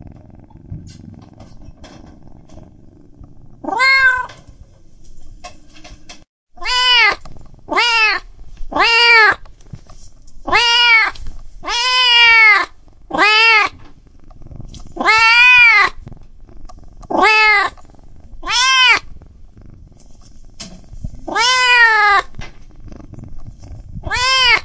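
Young kitten mewing over and over: about a dozen short, high calls, each rising and falling in pitch, roughly one a second. Before them comes a few seconds of low, quiet purring.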